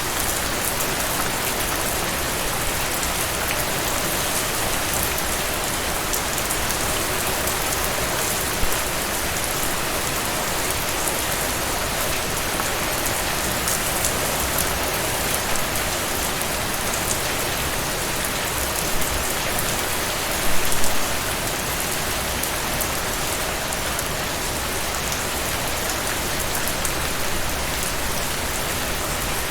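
Heavy rain falling steadily in a dense, even hiss and patter, with a brief louder patch about twenty seconds in.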